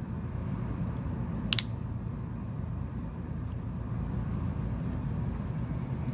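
Steady low background hum, with one sharp double click about a second and a half in.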